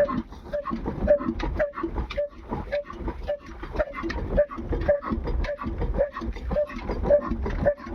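Heavy diesel engine running slowly, each firing stroke puffing from the exhaust in a steady rhythm of just under two beats a second over a low rumble.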